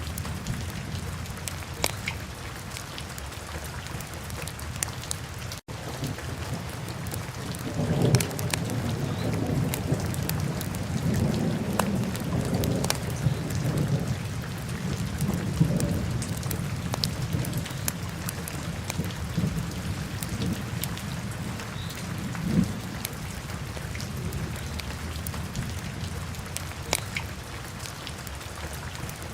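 Wood fire crackling in a fireplace: a steady hiss with scattered sharp pops and crackles. A low rumble swells about eight seconds in, rolls for several seconds and fades, then rises briefly again past the twenty-second mark.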